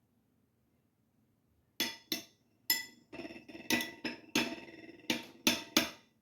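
A spoon clinking against a bowl while stirring porridge: about nine sharp, ringing clinks, starting about two seconds in.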